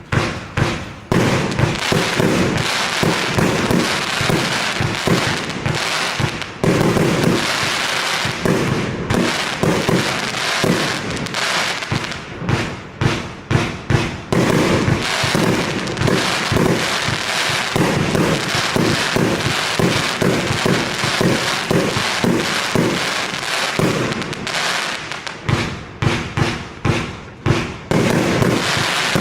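Evolution Fireworks 'Snowstorm 2023' consumer firework cake firing a continuous rapid volley of shots, several a second, with no break.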